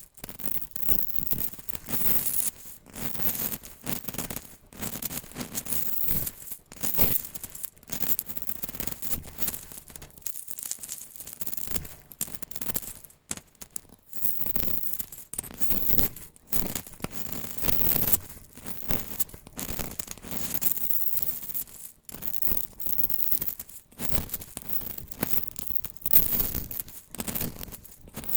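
Dry, brittle soap crunching and crumbling under hand pressure: a dense, irregular run of crisp crackles, scrapes and small clicks.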